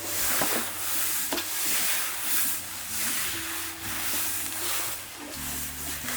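A steady hiss that swells and falls, with soft, sustained low music notes underneath that change about halfway through and again near the end.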